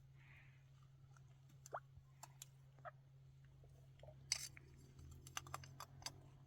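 Near silence with a low hum and a scattering of faint, short clicks and taps. The loudest tap is about four seconds in, and a quick cluster follows near the end.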